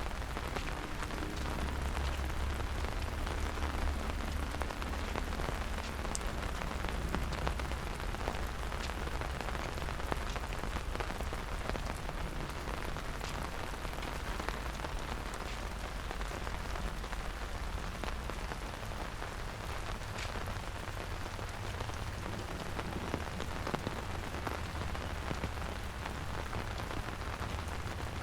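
Steady rain falling, with many individual drops ticking through the steady hiss, over a low rumble that is strongest in the first few seconds.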